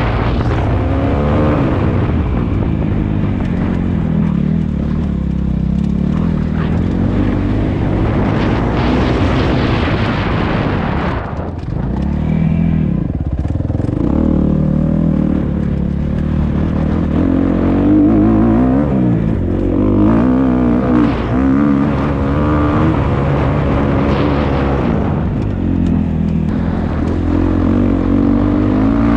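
Dirt bike engine being ridden hard, its revs rising and falling repeatedly as the throttle opens and closes, with a short drop off the throttle about eleven seconds in.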